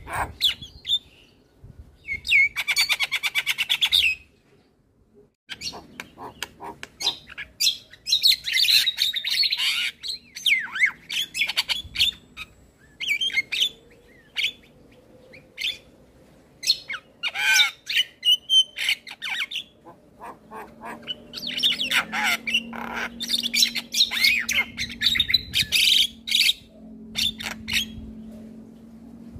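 Male Javan myna singing a long, varied song made of harsh squawks, sharp clicks, whistled notes and chatter. About two seconds in there is a fast rattle, then a brief pause before the song resumes.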